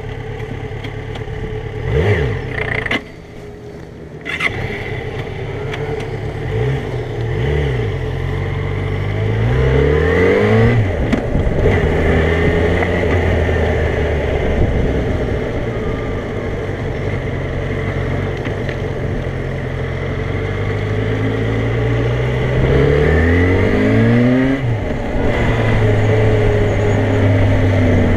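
Motorcycle engine running under the rider, its pitch climbing several times as the bike accelerates and falling back as it slows, with a brief dip in loudness about three seconds in.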